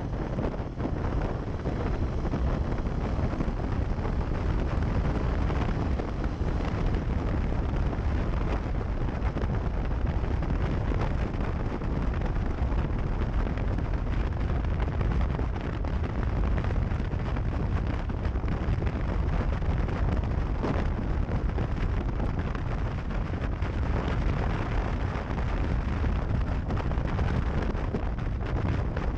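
Steady low rumble of wind buffeting the microphone, without letting up.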